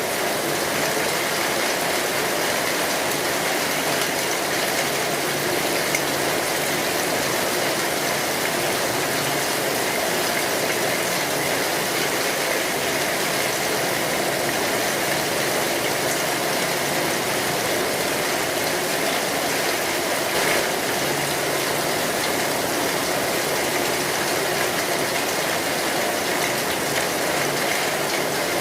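Steady rain falling on a metal roof, an even unbroken hiss, with a few faint pops from a crackling wood fire.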